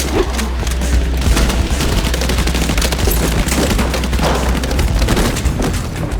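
Sustained rapid gunfire in a movie shootout, many shots overlapping with no break, over a low droning music score.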